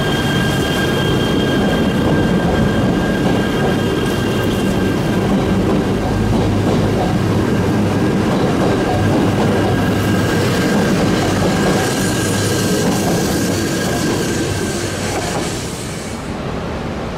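E3 series Shinkansen train rolling slowly along the platform: a steady rumble of the cars with a thin, steady wheel squeal and some clicking over the rail joints. The sound drops off near the end.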